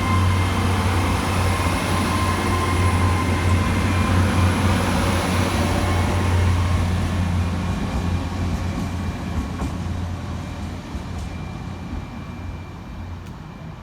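GWR Class 802 bi-mode train departing under diesel power: a steady low engine hum with high whines on top, fading away from about eight seconds in as the train pulls off.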